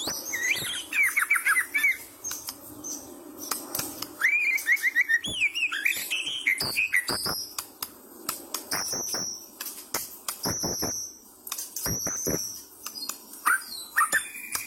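White-rumped shama singing a fast, varied song: rapid runs of rising whistled notes, quick trills and sharp clicking calls, delivered almost without pause.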